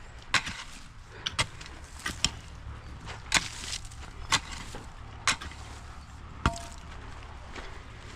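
Hand hoe striking into soil, about one stroke a second.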